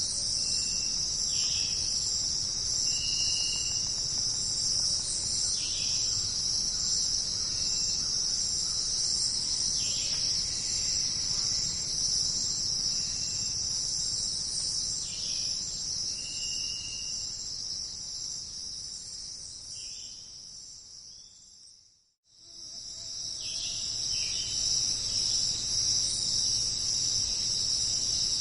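Dense jungle insect chorus of crickets, a steady high shrill with short chirping notes every second or two. It fades away almost to silence about two-thirds of the way through and fades back in a second or two later, the join where the ambience track loops.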